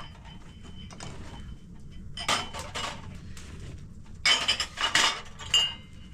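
Clattering and clinking of dishes, in two bursts about two seconds in and about four seconds in, some hits ringing briefly.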